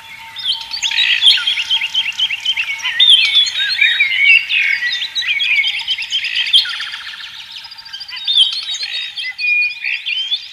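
Several songbirds singing at once: a dense chorus of quick chirps, whistled notes and trills, with a rapid buzzy trill about two-thirds of the way through.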